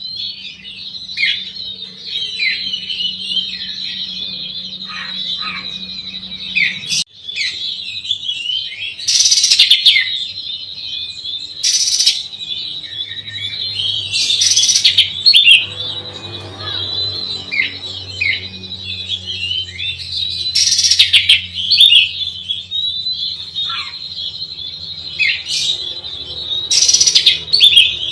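Oriental magpie-robin (kacer) singing continuously, a fast run of varied chirps and whistled notes, broken every few seconds by loud harsh bursts.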